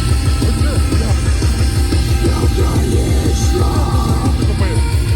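A rock band playing live and loud: heavy, punk-style rock with a fast, driving beat in the drums and bass.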